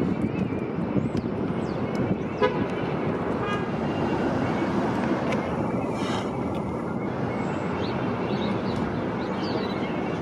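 Steady rumble of passing vehicles, with one short horn toot about two and a half seconds in.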